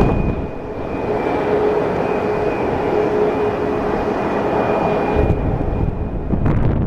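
Airbus A321neo's Pratt & Whitney geared turbofans running at takeoff thrust, a steady jet roar with high whining fan tones. About five seconds in the whine fades and a low rumble takes over.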